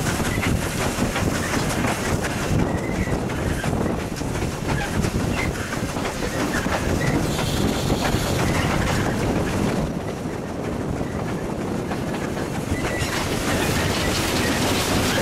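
Steam-hauled train running along the line, heard from on board, its wheels clattering over the rail joints. A louder hiss joins near the end.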